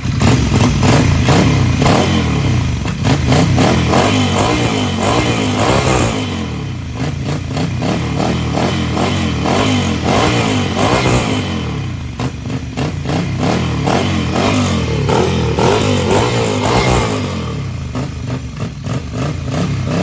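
Ducati Scrambler 800's air-cooled L-twin engine revved repeatedly through a header-back exhaust with the catalytic converter removed and a dB killer fitted, its pitch sweeping up and down in three spells, with the engine settling back toward idle between them and near the end.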